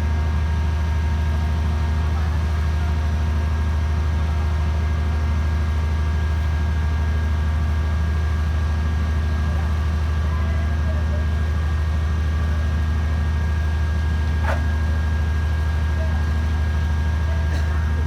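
Hydraulic static pile-driving machine running with a steady low drone from its power unit, with faint steady higher whines. There are two short clicks, the first about three-quarters of the way in and the second near the end.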